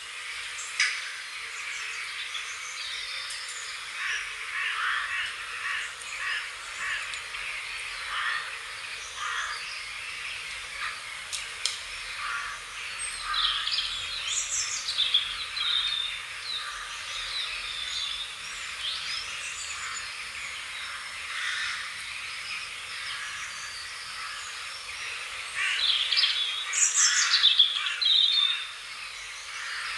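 Several wild birds chirping and singing, overlapping short calls and song phrases, with louder bursts of song about halfway through and again near the end.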